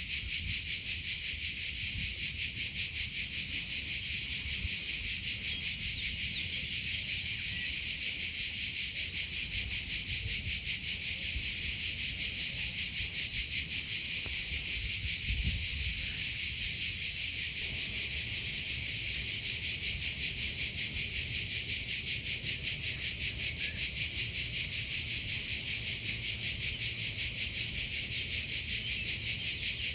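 Crickets chirping in a steady, rapid pulsing trill that never breaks off.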